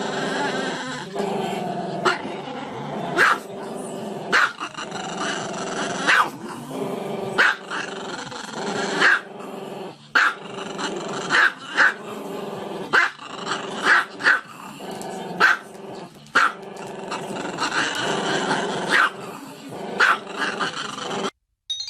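A dog growling continuously, broken by sharp barks about once a second.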